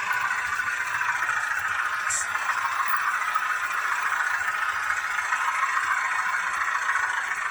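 H0-scale model of a Renfe Alco 313 diesel locomotive running on the layout, making a steady mechanical running noise. A brief faint high hiss comes about two seconds in.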